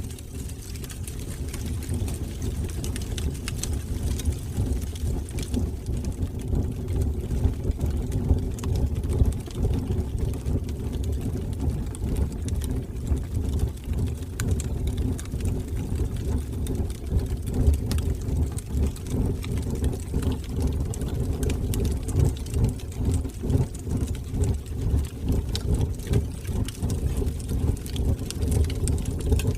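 Wood fire burning in a fireplace: a low, flickering rumble of flames with scattered small crackles and pops throughout.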